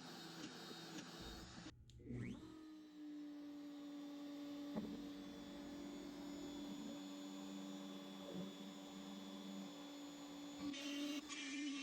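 CNC router at work. About two seconds in, after a short break, its spindle winds up to a steady hum, joined for a few seconds by a lower second tone. The busier ticking sound of the machine moving and cutting is there at the start and comes back near the end.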